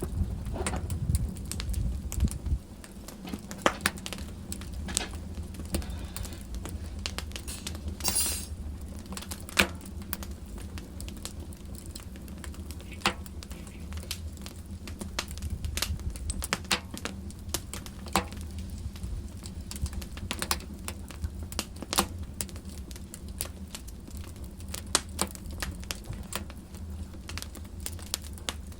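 Wood fire in a fireplace crackling, with irregular sharp pops over a low steady rumble; a short hiss about eight seconds in.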